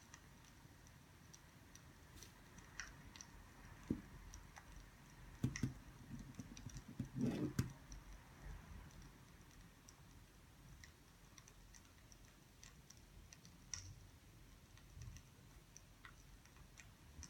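Faint, irregular crackling and ticking of burning firewood, with a few soft knocks a few seconds in.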